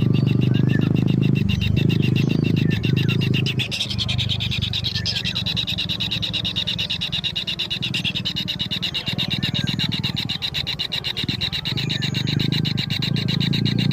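Kingfisher nestlings giving their continuous begging call, a fast, even, rasping buzz that keeps going without a break. A low steady hum sits under it for the first few seconds and comes back near the end.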